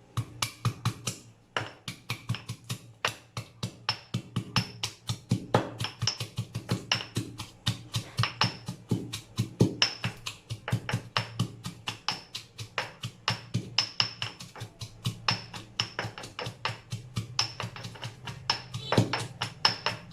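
Rapid, sharp wooden-sounding knocks, about four to five a second, continuing without a break.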